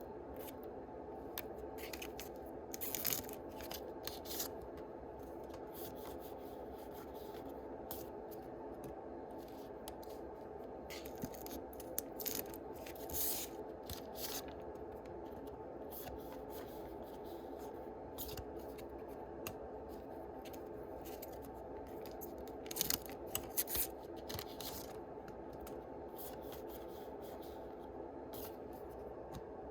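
Foil booster-pack wrappers of Yu-Gi-Oh cards crinkling and tearing open, with cards being handled, in a few short bursts: a few seconds in, around the middle and again past two-thirds. A steady low hum runs underneath.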